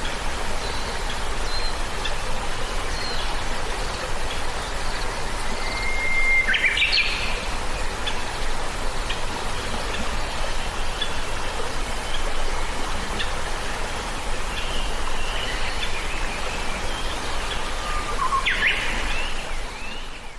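Birds chirping and calling over a steady rushing noise, with a held whistle and quick sweeping calls about a third of the way in and again near the end; the sound fades out at the close.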